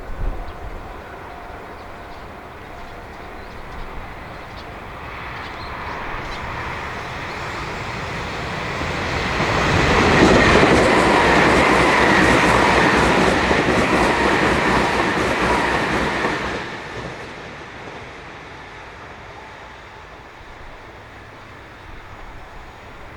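Electric train passing, its sound building over several seconds, loudest about ten seconds in with wheel clatter and a steady whine, then fading off after about sixteen seconds.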